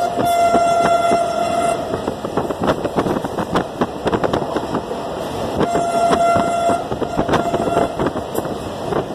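Passenger train running, with the wheels clacking over rail joints, heard from aboard the train. The locomotive horn sounds a steady single-pitched blast that stops about two seconds in, then two more blasts about six to eight seconds in.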